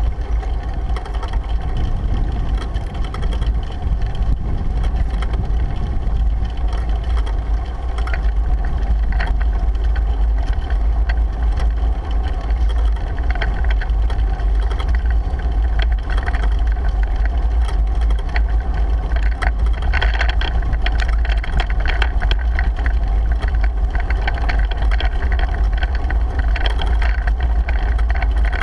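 Wind buffeting a bike-mounted GoPro's microphone as a deep, steady rumble, over the hiss of tyres rolling on the road, with scattered small ticks and rattles from the bicycle.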